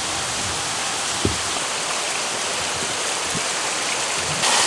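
Hurricane rain and wind, a steady hiss, with a short low thump about a second in; the rush gets louder just before the end.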